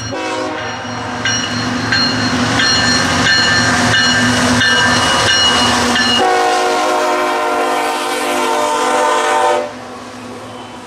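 Diesel locomotive horn sounding one long blast, its tone changing about six seconds in and cutting off near the end, with the passing train's running noise continuing afterwards.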